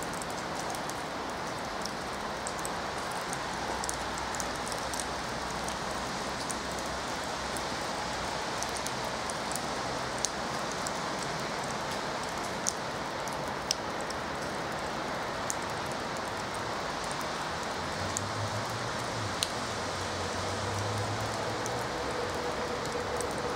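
A steady outdoor hiss like light rain, with a few sharp ticks scattered through it. In the last few seconds a low hum and a faint steady tone come in as the approaching train draws near.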